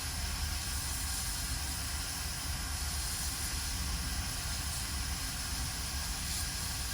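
Steady hiss with a low hum underneath, like air flowing from running bench equipment, with no change in level.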